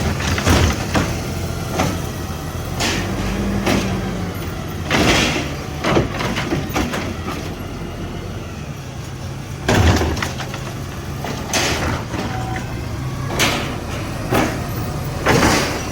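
Mack garbage truck's diesel engine running steadily, with repeated metallic clanks, bangs and short air hisses as it loads and packs trash.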